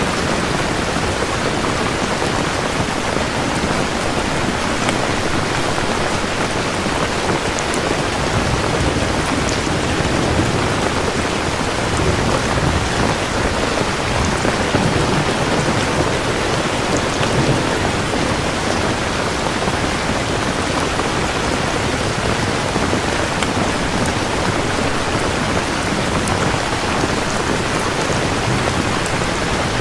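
Steady heavy rain falling, with a low rumble of rolling thunder swelling and fading in the middle.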